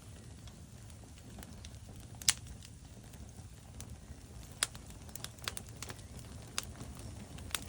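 Wood fire burning in a fireplace: irregular sharp crackles and pops of burning logs over a low, steady rumble of flames. The loudest pop comes a little over two seconds in, another strong one about halfway through.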